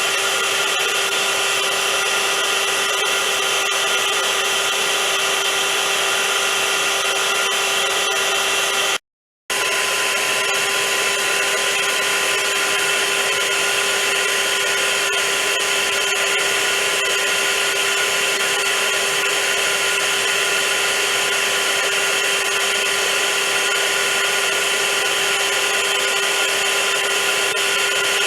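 Vacuum cleaner running steadily with an even whine and rush of air. The sound cuts out completely for about half a second around nine seconds in, then resumes unchanged.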